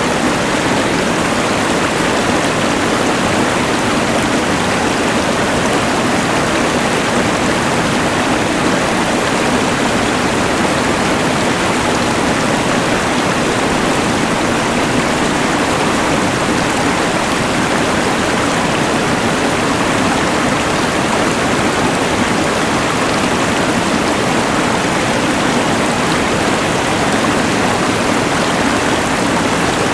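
Rushing mountain river layered with a LectroFan white noise machine: an even, unbroken rush of water noise with no changes or separate events.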